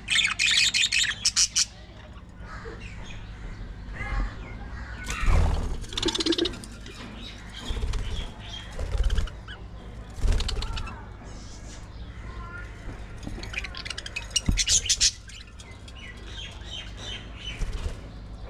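Pet budgies chirping in quick high bursts, with dull thumps and rustling in between.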